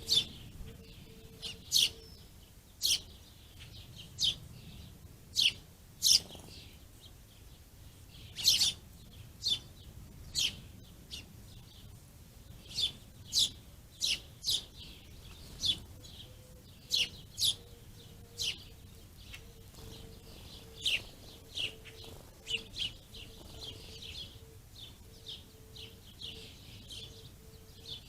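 Small songbirds chirping: short, sharp single chirps repeated irregularly, roughly one a second, at times in quick pairs.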